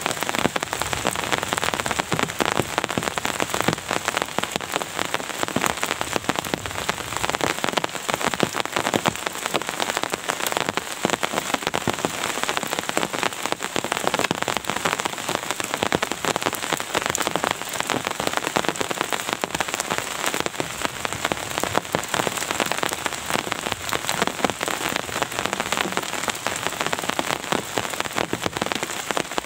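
Steady rain falling, a dense unbroken hiss of many small drop impacts close together, even in level throughout.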